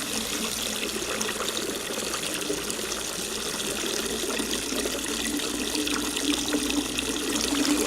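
Stale gasoline running in a steady stream out of the open drain plug of a 1966 Ford Mustang's fuel tank as the tank is emptied; the fuel has gone bad from years of sitting.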